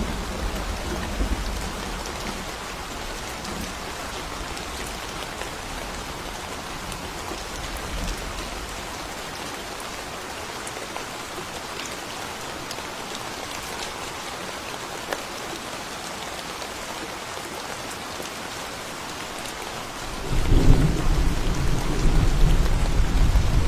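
Steady rain falling in a forest, an even hiss, with thunder: a deep rumble dies away in the first couple of seconds, and about twenty seconds in a loud, deep roll of thunder breaks in and keeps rumbling.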